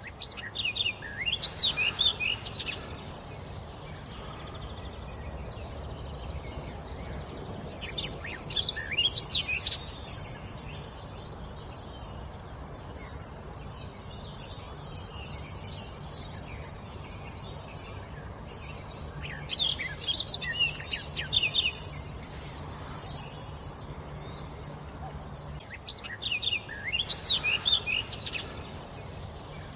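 A songbird singing four phrases of quick, high notes sliding up and down in pitch, each phrase about two seconds long, with pauses of several seconds between them, over a steady low background noise.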